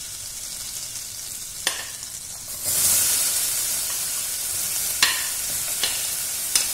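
Garlic sizzling in hot butter and olive oil in a stainless steel saucepan. About two and a half seconds in, chopped onions are tipped into the fat and the sizzle grows louder, with a few sharp clicks.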